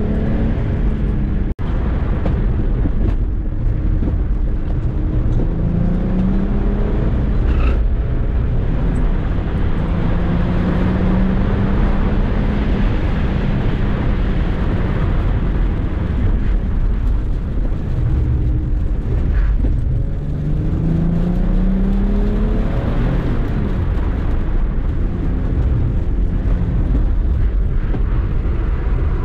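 Audi 2.5 TDI V6 diesel engine heard from inside the cabin, driven hard with a manual gearbox: the engine note climbs and drops again several times through gear changes, over loud road and wind noise. The engine has a leak in its intake.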